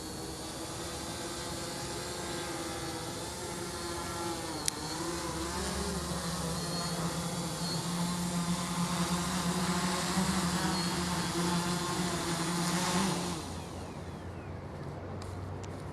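OFM 650 V4 SE multirotor drone's electric motors and propellers humming steadily in flight, the pitch wavering and rising a little as the throttle changes. A single sharp click comes a little under five seconds in, and about thirteen seconds in the sound drops abruptly and becomes quieter.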